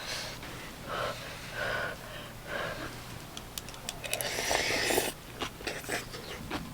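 People eating close to the microphone: short breathy mouth sounds, then a longer breathy hiss of air about four seconds in, with small clicks around it.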